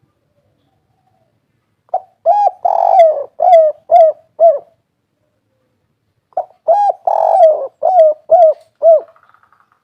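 Spotted dove cooing two 'kuk 3' phrases, one about two seconds in and one past the six-second mark. Each phrase is a short opening note, a long drawn-out coo, then three short coos.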